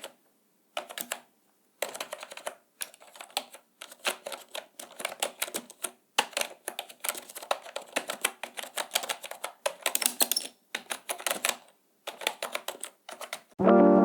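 Rapid runs of key clicks: typing in bursts of a second or two, with short silent pauses between them. Music comes in just before the end.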